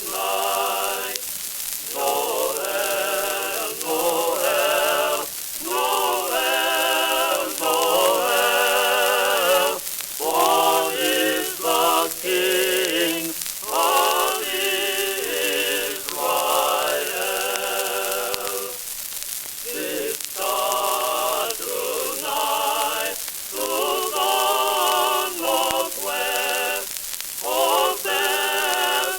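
Singing voices with vibrato, in phrases a few seconds long, on an early shellac phonograph record, over the steady hiss and crackle of the disc's surface noise.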